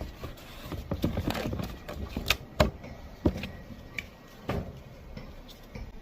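Wooden frame parts of a stand-up paddleboard kit knocking and clattering as they are handled and fitted together. The knocks are irregular, and the loudest come about two and a half seconds in.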